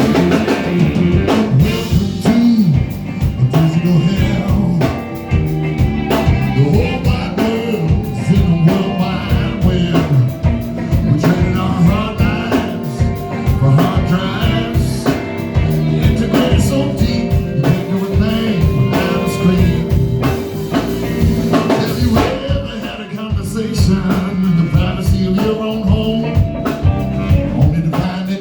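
Live blues-rock band playing a song, with a steady beat on a drum kit, bass and electric guitar.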